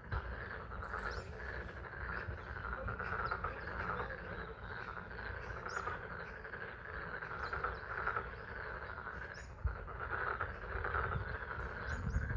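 A chorus of frogs calling steadily over a rainy pond, with a low rumble underneath and a couple of faint high chirps.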